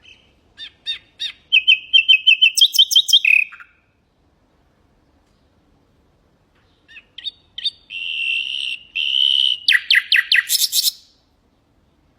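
Nightingale singing two phrases, one near the start and one in the second half, with a pause between. Each phrase is a quick series of repeated high notes and ends in a fast run of very high notes.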